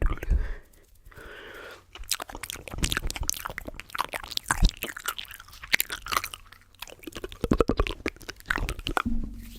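Close-miked ASMR mouth sounds: a dense, irregular run of small wet clicks and smacks, quieter for the first second or two.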